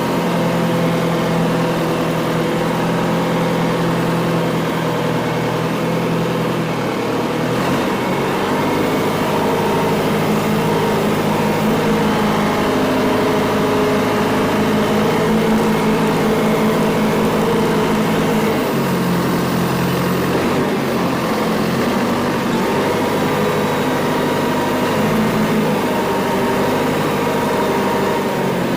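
John Deere 410 loader backhoe's engine running steadily, its pitch stepping slightly a couple of times.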